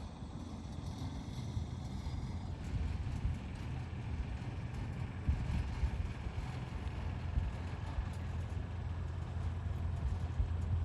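Engines of the car ferry New London running as it passes: a steady low drone that grows gradually louder.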